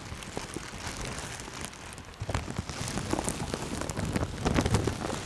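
Rain falling steadily, with many sharp individual drop hits; it grows louder about two seconds in.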